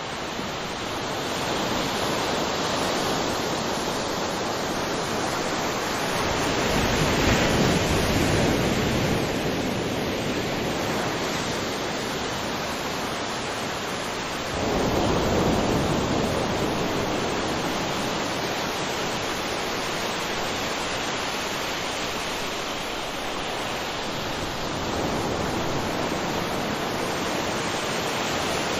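Ocean surf on a beach: a steady wash of waves that swells and ebbs, with larger breakers rolling in several times, one arriving suddenly about halfway through.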